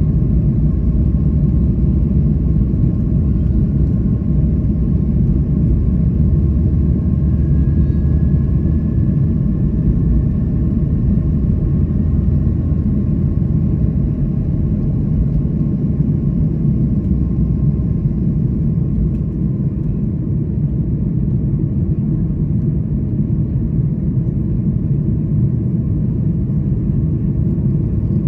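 Steady low rumble of a Boeing 737 MAX 8 airliner's cabin in flight, with a faint higher hum that drifts slightly in pitch.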